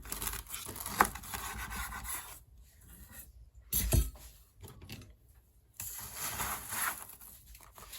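A knife sawing through the crisp, golden-brown baked crust of a stuffed French bread loaf, in two spells of rasping strokes. There is a sharp knock about a second in and a heavier one about four seconds in.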